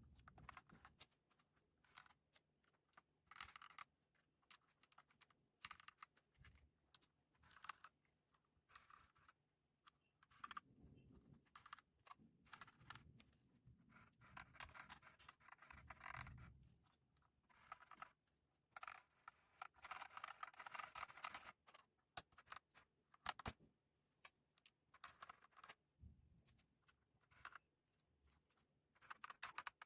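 Typing on a Redragon K596 Vishnu mechanical keyboard fitted with Akko CS Lavender Purple tactile switches and HyperX PBT pudding keycaps: quiet, irregular key clacks. There are runs of fast typing in the middle and a few sharp single keystrokes after them.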